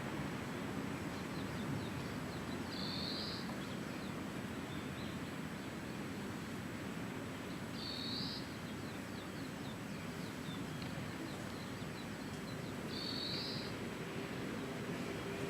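Steady outdoor background noise, with a bird's short high call repeated three times about five seconds apart and fainter chirps in between.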